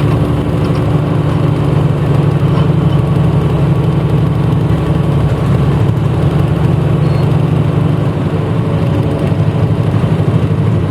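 Diesel engine of a 1994 Hino Blue Ribbon bus running steadily, heard from inside the passenger cabin, with a slight easing about eight seconds in.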